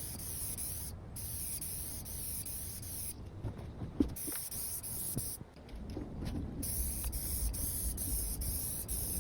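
Spray paint hissing as a coat of paint goes onto the table. The spray stops briefly about a second in and twice more near the middle.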